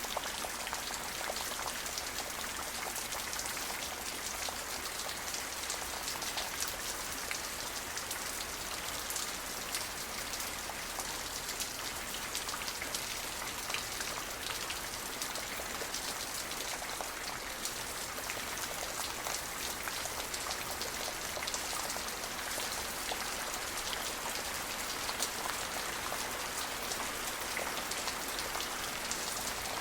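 Steady rain falling, a constant hiss with many fine drops pattering on surfaces.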